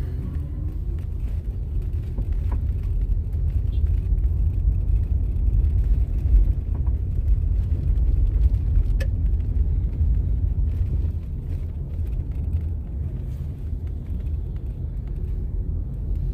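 Steady low rumble of a car driving on the road, heard from inside the moving vehicle, with a couple of faint clicks.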